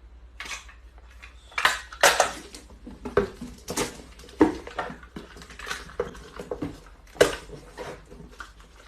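Irregular clinking and clattering of hard objects knocking together, several sharp knocks a second with some short ringing.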